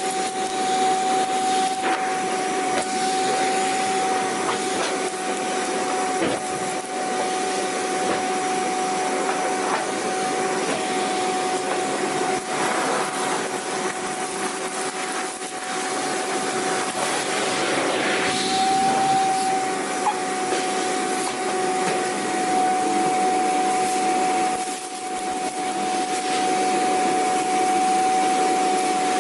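Vacuum cleaner running continuously: a steady motor whine over a wide rushing air hiss, with a couple of brief dips in level.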